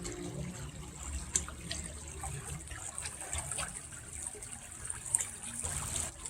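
A small brook burbling steadily, with many short splashes and trickles.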